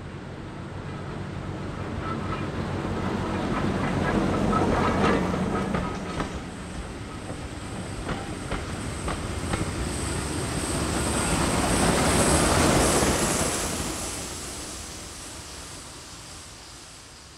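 Train passing by: the diesel-mechanical shunter 'Grumpy' comes closer with its engine running, loudest about five seconds in, then the coach's wheels click over rail joints. The sound swells again about twelve seconds in as the second locomotive at the rear of the train goes past, then fades as the train moves away.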